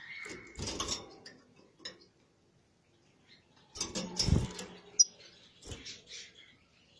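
Small cage birds giving brief high chirps, with knocks and rustling around them; the loudest knocks come about a second in and about four seconds in.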